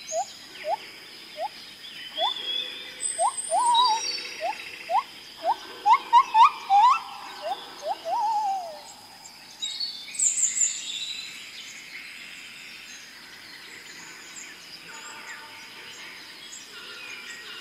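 Birds calling: a run of short rising whistled notes that come faster and climb higher over the first eight seconds or so, with higher chirps around them. A thin steady high tone runs underneath, and the calls are sparser and quieter in the last few seconds.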